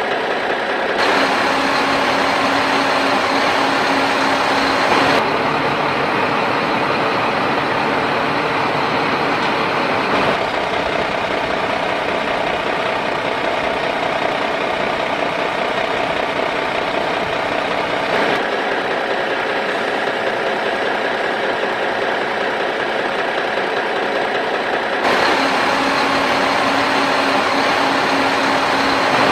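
A motor running steadily with an engine-like hum, its pitch and tone switching abruptly several times, as if cut between different machines.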